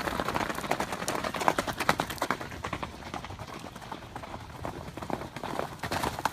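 Hoofbeats of a herd of horses running loose: a fast, irregular clatter of many hooves that thins out in the middle and picks up again near the end.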